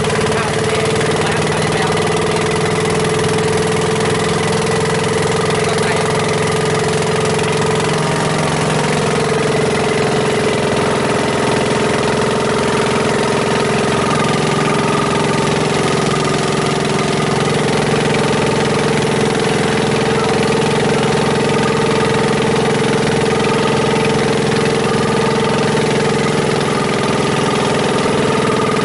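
Longtail boat engine running steadily under way, a constant loud drone whose pitch wavers slightly at times.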